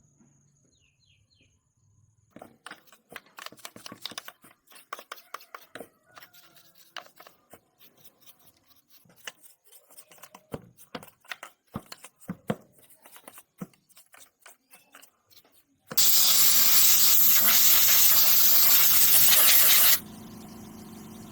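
Many small metal clicks and clinks, like tools and parts being handled, for about fourteen seconds. Then a loud, steady rushing noise lasts about four seconds and cuts off suddenly. It gives way to a steady engine hum, the Honda Win 110cc motorcycle engine running at idle.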